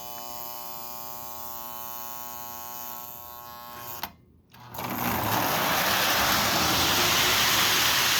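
A steady electric buzz with many even tones. After a brief dropout about four seconds in, a Lionel U36C O-gauge diesel locomotive is running with its train of metal-wheeled cars, making a loud, steady rumble and rush on the track.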